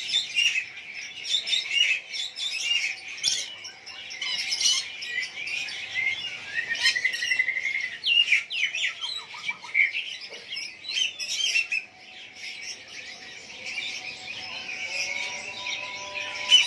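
Many caged songbirds chirping and singing at once: a dense, overlapping chorus of high chirps, trills and short whistles.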